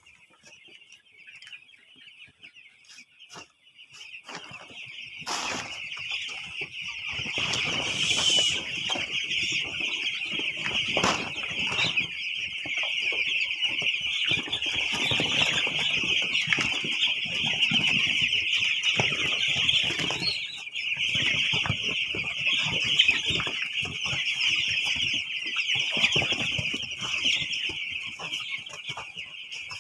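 A flock of chickens calling all together in a dense, steady high chorus that swells up over the first few seconds, with scattered wing flaps and scuffling among the birds.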